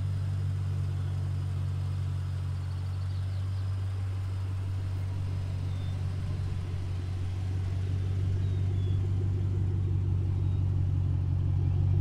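The supercharged 4.6-litre V8 of a 2008 Ford Mustang Roush 427R idling steadily, a low even rumble with no revs. It grows a little louder in the last few seconds as the tailpipes come close.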